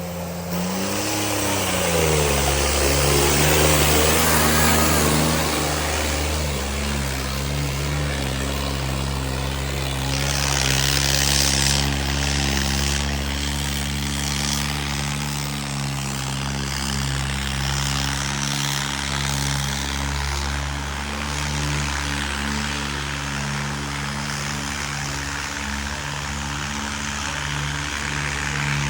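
John Deere tractor's diesel engine revving up over the first couple of seconds, then running steadily at high revs under heavy load while pulling a harrow through the soil.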